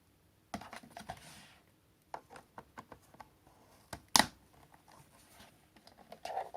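Irregular clicks, knocks and rattles of cordless stick vacuum parts being handled, with one sharp click about four seconds in.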